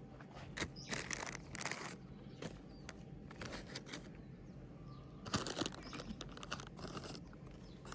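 Intermittent rustling and crinkling of plant cuttings, soil and their pots being handled, busiest about a second in and again near the five-second mark.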